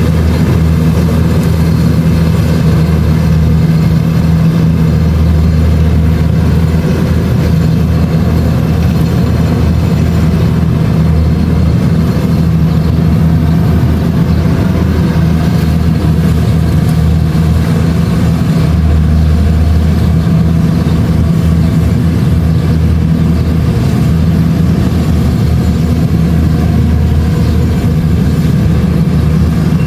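Kubota DC-70 Plus combine harvester's diesel engine running steadily under load, with a constant low drone and the clatter of the threshing machinery.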